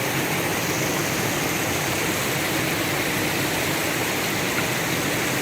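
Forest stream rushing steadily over rocks, a continuous even hiss of running water.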